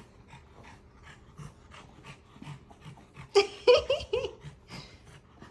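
French bulldog panting in quick, even breaths, then a short, loud, high-pitched whining vocalization about three and a half seconds in.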